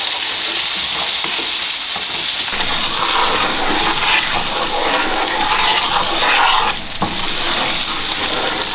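Diced potatoes sizzling steadily as they sauté in hot oil and curry in a frying pan, with a wooden spoon stirring through them.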